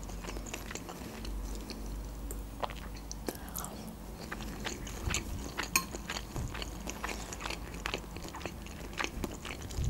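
A person chewing food close to the microphone, with many short, irregular mouth clicks over a low steady hum.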